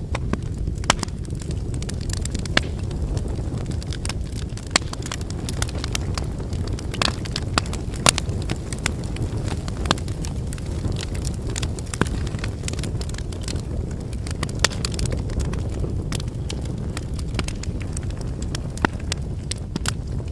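Wood campfire burning: a steady low sound of flames with irregular sharp crackles and pops from the burning wood, a few louder snaps scattered through.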